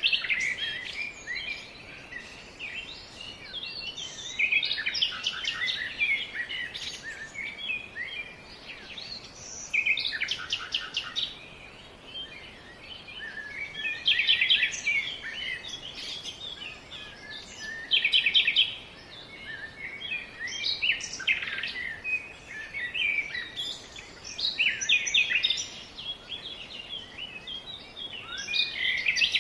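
Several birds singing and calling at once: overlapping chirps, whistled notes and fast buzzy trills that come in repeated phrases every few seconds, over a faint steady hiss.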